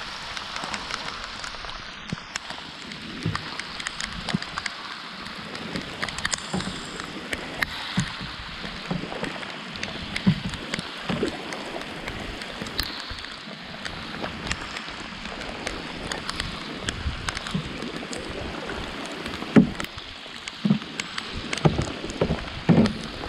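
Rain falling on the river and the canoe: a steady hiss scattered with sharp drop ticks. Several dull knocks come in the last few seconds.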